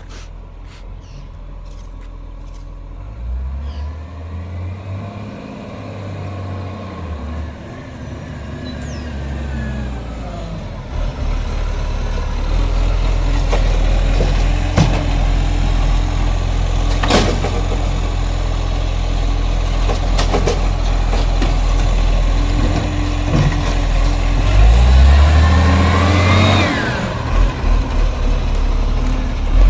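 Garbage truck engine drawing closer and revving up and down twice, growing louder over the first dozen seconds. A few sharp knocks come through the middle.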